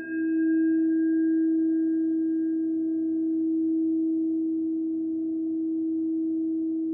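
Crystal singing bowl ringing with one steady, sustained tone; its higher overtones fade away over a few seconds while the main tone holds.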